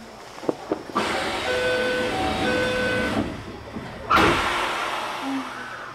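Electric commuter train standing at a station stop: a hiss with two short tones sounding twice, then a sudden loud thump about four seconds in followed by a fading hiss, typical of the door-closing sequence before departure.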